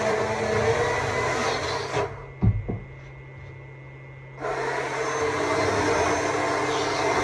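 Stihl MSA 200 C battery chainsaw running and cutting wood. It stops about two seconds in, two sharp knocks follow, and it starts up again about four and a half seconds in.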